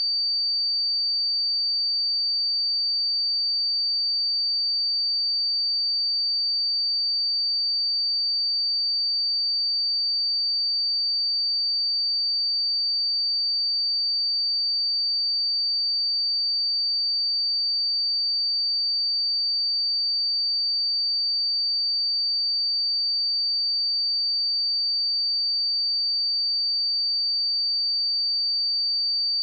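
Steady, unbroken 4615 Hz sine-wave test tone: one high, pure pitch at constant loudness.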